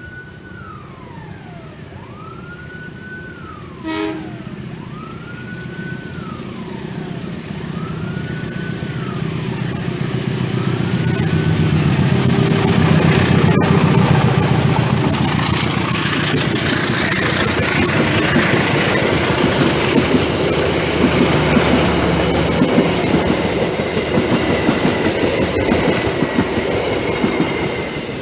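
Diesel-electric locomotive (CC 204) and its passenger coaches approaching and passing. The engine rumble builds to its loudest as the locomotive goes by about twelve seconds in, then the coaches' wheels clatter over the rail joints and it eases off near the end. In the first seconds there is also a siren-like tone rising and falling about every two seconds, and a short sharp sound about four seconds in.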